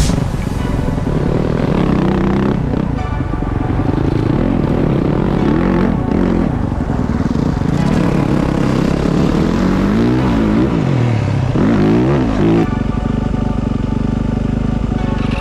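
Motocross bike engine revving, its pitch rising and falling again and again as the throttle opens and closes, with an abrupt change in the sound about twelve and a half seconds in.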